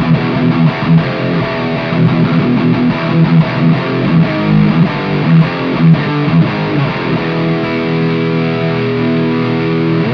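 Electric guitar played through a Nux Cerberus multi-effects pedal with its overdrive and distortion both engaged in another combination mode, giving a heavily distorted tone. Sustained chords alternate with moving riff notes.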